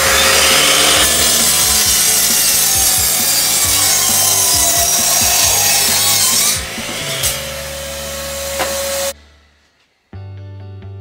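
Mitre saw cutting through a cricket bat near the handle, for about six and a half seconds. Then the blade spins free with a steady motor whine and a couple of clicks, until the saw cuts off about nine seconds in.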